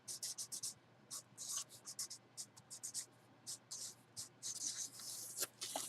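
Packaging being handled and rustled by hand: a quick string of short, scratchy crinkles, thickening into a longer rustle near the end.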